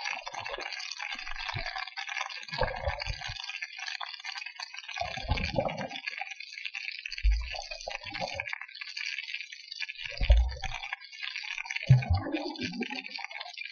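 Water sloshing in low surges every two seconds or so over a steady crackling hiss.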